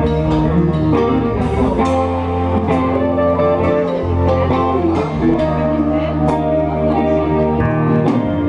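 Four-piece band playing a slow, bluesy instrumental intro: electric guitar lines over held bass-guitar notes and drums with cymbal hits.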